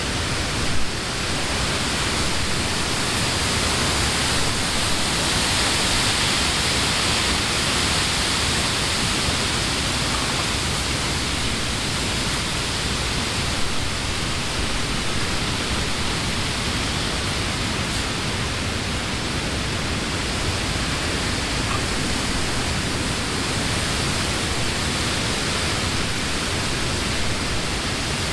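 Summer wind blowing through trees, a steady rushing rustle of leaves that swells a little a few seconds in. A brief louder bump comes about a second in.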